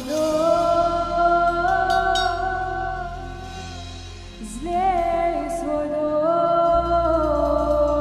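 Contemporary worship song: a singer holds long wordless notes over sustained keyboard chords, with a brief wavering note about five seconds in and the low bass growing stronger near the end.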